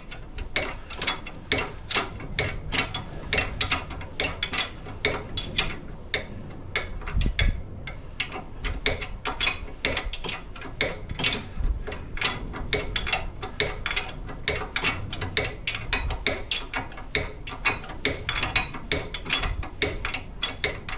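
Repeated sharp metallic clicking, several clicks a second and slightly uneven, from hand-tool work on the car.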